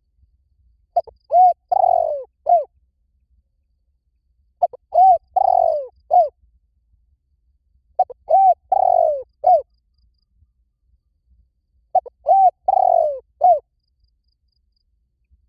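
Spotted dove cooing: four repeated phrases, each of two short coos, one longer coo and one short closing note, with pauses of about two seconds between phrases.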